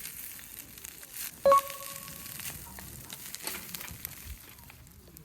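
Food sizzling and crackling in a pan over a campfire, with one sharp metal clink about a second and a half in that rings briefly.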